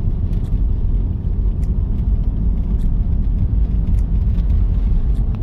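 Car road noise: a steady low rumble while driving.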